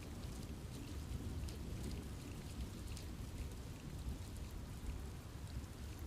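Steady rain falling in a forest, a continuous low rush with scattered drop ticks on leaves.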